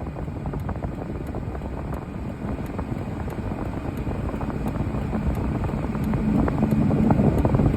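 Steady motor vehicle rumble with road hiss, slowly growing louder near the end.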